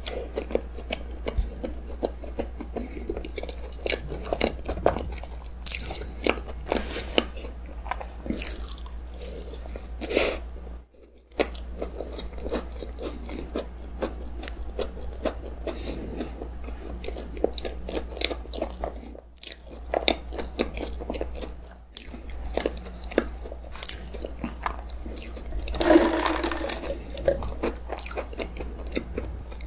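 Close-miked chewing of a soft, cream-filled cookies-and-cream roll cake: dense wet mouth clicks and smacks, with a louder, longer mouth sound near the end. The sound drops out briefly twice.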